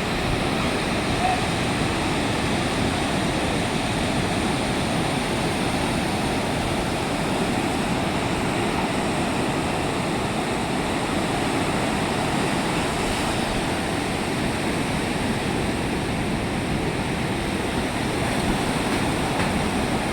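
Steady rush of sea surf, an even roar of water noise that holds at one level throughout.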